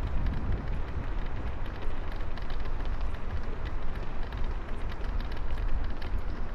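Wind buffeting the camera microphone on a bicycle ride in the rain: a steady low rumble over a rushing noise of the wet road, with scattered light ticks.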